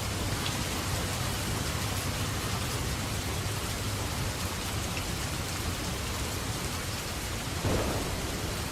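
Steady heavy rain falling on a surface, an even hiss with a low rumble underneath. A brief louder swell comes near the end.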